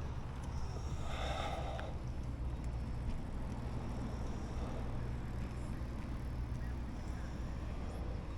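Steady low rumble of wind and rolling noise on a moving microphone, with a brief higher-pitched sound about a second in.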